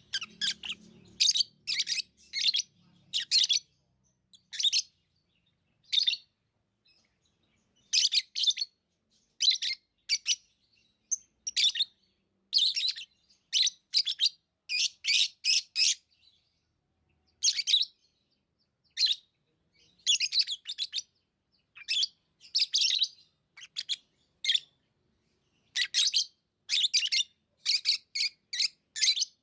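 Lovebirds chirping: shrill, high chirps in quick clusters, broken by short pauses.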